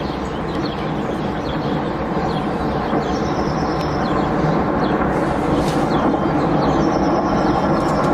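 Large rockslide: a steady rumble of rock coming down, slowly growing louder. A bird repeats a short falling call every few seconds, with scattered chirps.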